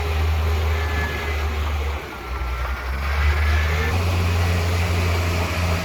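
Heavy diesel engine of earth-moving machinery running steadily. It drops off for about a second roughly two seconds in, then picks up again.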